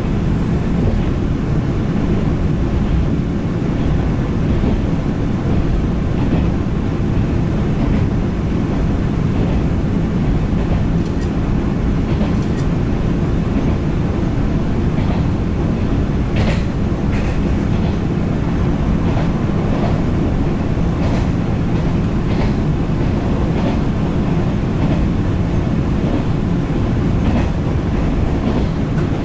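JR 113 series electric train running at speed, heard from inside the carriage: a steady rumble of wheels on the rails with scattered sharp clicks.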